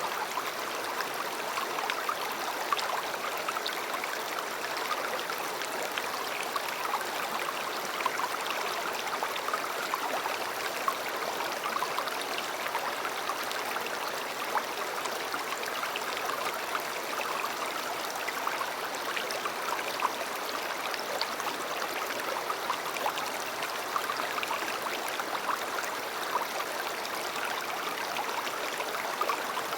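River flowing steadily: a continuous rush of water with many brief splashes and gurgles in it.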